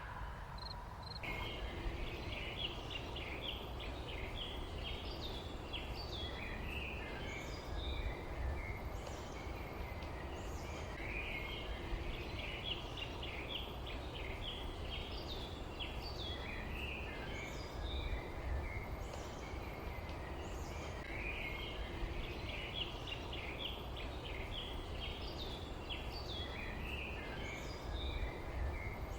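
Several small birds chirping in quick, repeated short calls, coming in bunches, over a low steady rumble.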